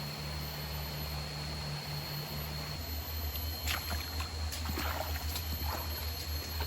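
Steady rush of a forest stream under a low, even hum, with a few light clicks and snaps in the second half.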